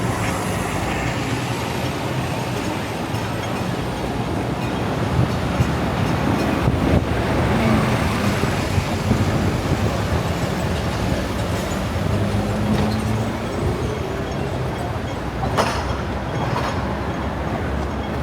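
Hong Kong double-decker tram running along its rails, a steady low hum with the noise of the wheels on the track, and a sharp knock about fifteen seconds in.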